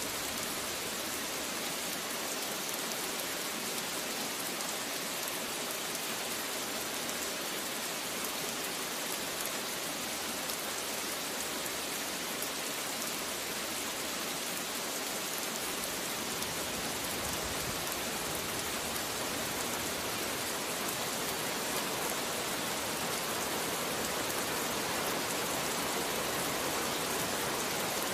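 Rain falling steadily, an even hiss of drops with no thunder, growing slightly louder in the second half.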